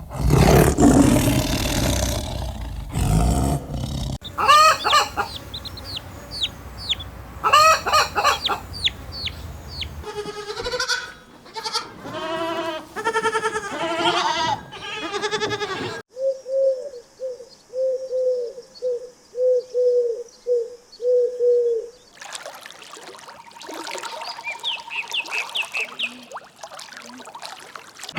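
Domestic chickens in a series of short clips, crowing and clucking, cut one after another.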